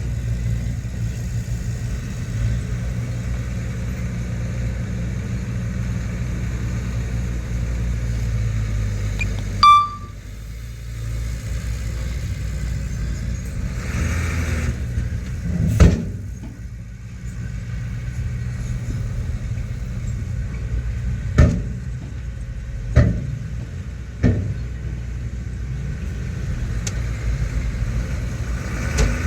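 Heavy diesel earthmoving machinery running steadily with a low rumble. About ten seconds in there is a brief sharp, high-pitched sound, and the engine then runs quieter. Several sharp knocks follow in the second half.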